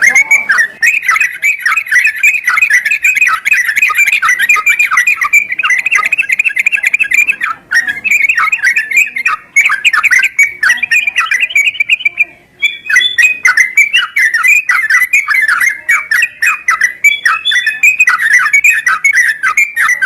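Yellow-vented bulbuls (trucukan) chattering and singing in a fast, continuous stream of bubbly notes, with a few brief breaks. This is a lure recording of bulbul song used to prompt a caged bulbul to sing.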